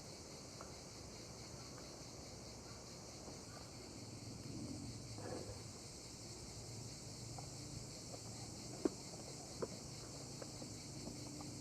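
Steady, high-pitched insect chorus, typical of crickets, with a few scattered light clicks and two sharper knocks under a second apart late on.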